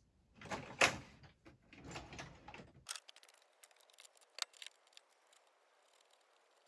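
Hand tools and metal parts being handled: irregular clicks, light rattles and clinks. The clatter is busiest in the first three seconds and thins to sparse sharp clicks after that.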